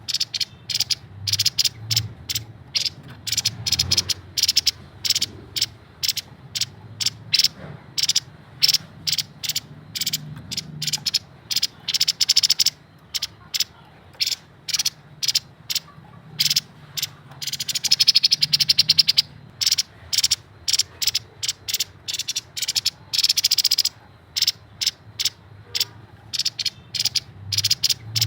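Grey-headed babbler calling: rapid runs of short, sharp notes, breaking into a denser fast trill twice in the second half.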